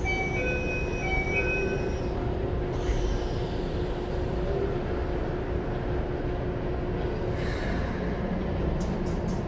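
Onboard running sound of a Keikyu 1000 series train driven by a Mitsubishi full-SiC VVVF inverter: the steady rumble of the car with the inverter and traction motors' whine. In the first two seconds the tones step in pitch several times, and a high whine slides down twice. A few light clicks come near the end.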